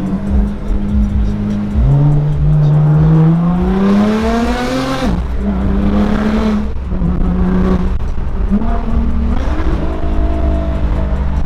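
Nissan GT-R's twin-turbo V6, heard from inside the cabin, accelerating hard: the engine note rises steadily for about three seconds, drops sharply at an upshift, then holds and climbs again in shorter pulls.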